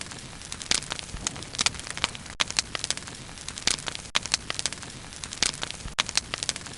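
Bonfire burning, its wood crackling irregularly with sharp pops several times a second over a steady hiss.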